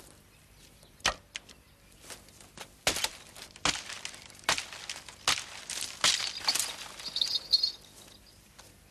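An irregular series of sharp knocks and cracks, about a dozen over several seconds, with a brief high chirping about seven seconds in.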